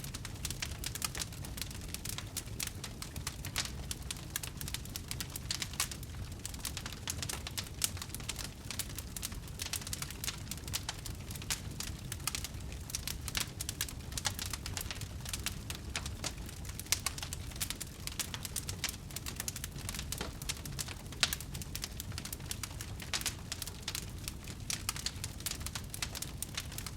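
Wood fire burning, with a dense run of small sharp crackles and pops over a low rumble.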